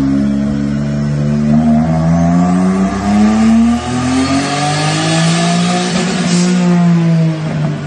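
Mitsubishi Mirage's compound-turbocharged three-cylinder engine making a full-throttle pull on a chassis dyno: the revs climb steadily for about five seconds with a rising hiss, then the throttle is lifted and the revs drop.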